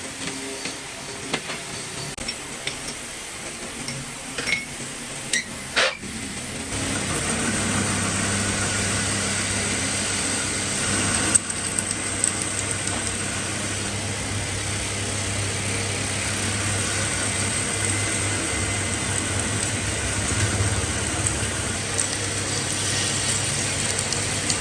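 Metal parts clinking and knocking a few times, then about seven seconds in a lathe starts up and runs with a steady hum and a rough cutting noise over it.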